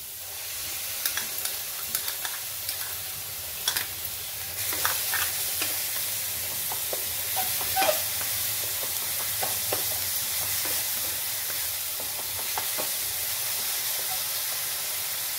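Ground onion paste with garlic, ginger and red chilli paste sizzling as it fries in oil in a wok, stirred with a wooden spatula that scrapes and taps against the pan. The sizzle is a steady hiss, with scattered clicks from the spatula, a few louder ones about four and eight seconds in.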